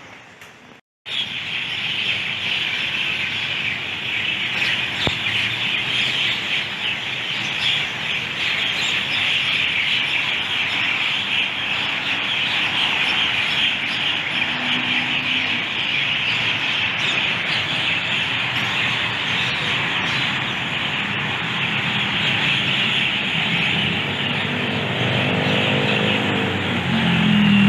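A dense, steady chorus of many birds chirping all at once, as from a large city roost, starting suddenly about a second in, over a traffic rumble. Near the end a motor vehicle's engine rises in pitch as it passes close.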